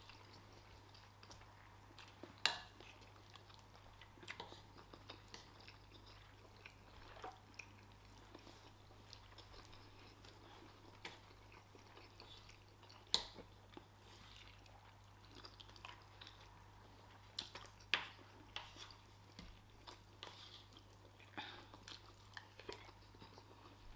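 Quiet chewing and eating at a meal of rice and stew, with a faint steady hum and occasional sharp clicks scattered through.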